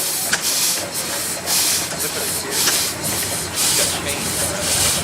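1909 Case 20-horsepower steam tractor running slowly with no load, its exhaust giving a hissing puff of steam about once a second.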